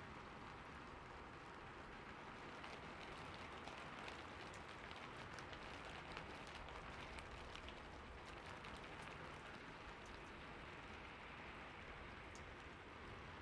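Steady, faint rainfall: an even hiss of rain with many small drop ticks, the drops thickest in the middle of the stretch.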